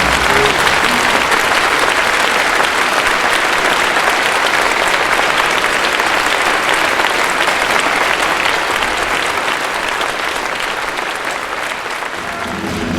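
Audience applauding, dying down near the end as music begins.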